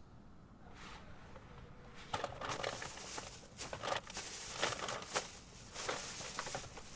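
Snack packaging being rummaged through: plastic wrappers and bags rustling and crinkling in irregular handfuls, with small clicks.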